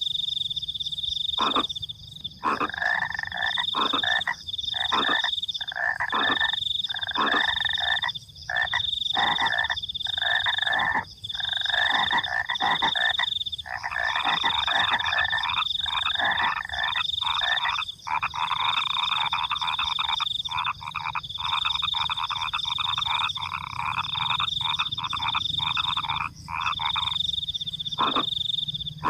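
Frogs calling in a pulsing chorus, with crickets trilling in a high, steady tone that breaks off every second or so.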